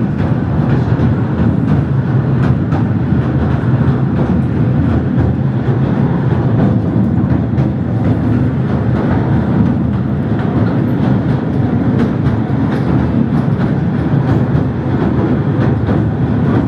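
Southend Pier Railway train running along the pier, heard from on board: a loud, steady rumble of wheels on track with faint clicks.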